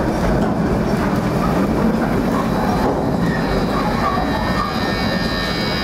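Narrow-gauge train cars rolling along the track, heard from aboard an open passenger car: a steady rumble and clatter of wheels on rail. A faint high wheel squeal comes in about halfway through.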